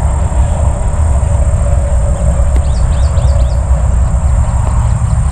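Wind buffeting the microphone, a loud, unsteady low rumble, with a bird giving a quick run of chirps near the middle.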